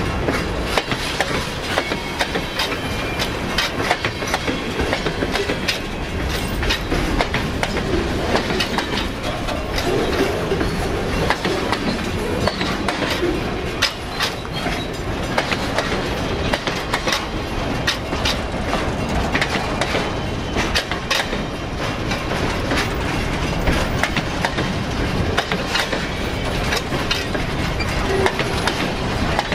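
Freight cars rolling past, their steel wheels clicking steadily over the rail joints.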